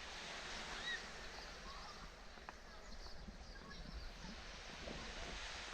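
Faint outdoor ambience: a steady low rumble and hiss with a few small, faint sounds scattered through it.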